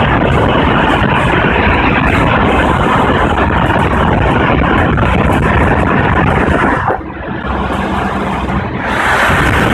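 Nissan D22 Navara's turbocharged engine and exhaust running hard under load, loud and harsh. The sound drops away about seven seconds in, then builds again near the end.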